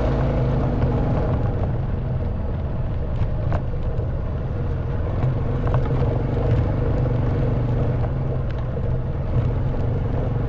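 Honda Wave 110cc single-cylinder four-stroke engine running steadily under way, with a few scattered short clicks and knocks over it.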